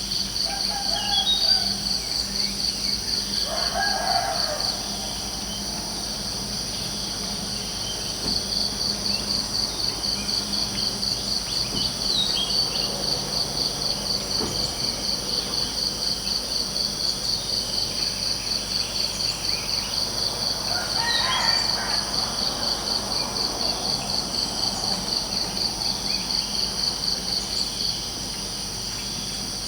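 Crickets chirping in a fast, steady pulsing trill that pauses twice for a few seconds. Birds call a few times over it, most clearly about a second in, about four seconds in, and about twenty-one seconds in.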